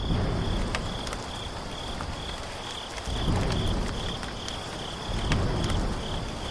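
Insect chirping in a steady pulsing rhythm, a few high chirps a second, over a low rumbling background with scattered light clicks.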